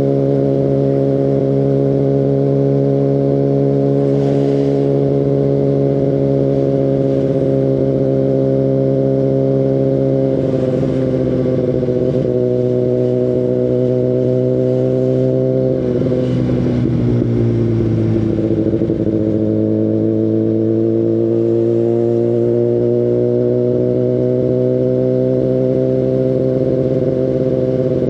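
2019 Kawasaki ZX-10RR's inline-four engine through an Akrapovic Evolution Line carbon full exhaust, heard from the rider's seat at steady part-throttle. The note holds fairly even, drops in pitch twice around the middle, then climbs slowly through the last third.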